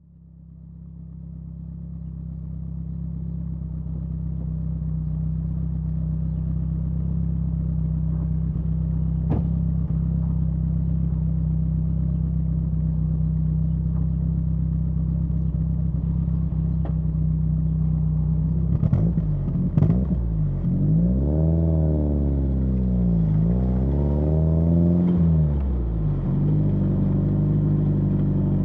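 Exhaust of a BMW E30 316i's 1.6-litre four-cylinder, heard at the tailpipe, running at a steady idle as it fades in. About two-thirds of the way through there are a couple of sharp clicks. The engine then revs up and back down twice before settling back to a steady run.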